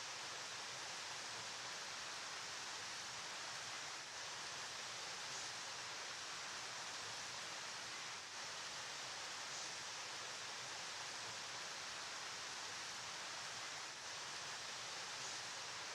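River water flowing, a steady even rushing hiss with no change.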